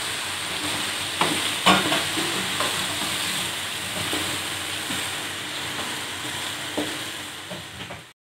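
Boneless chicken pieces sizzling in hot oil in a wok, stirred with a wooden spatula that knocks and scrapes against the pan a few times. The sound cuts off suddenly near the end.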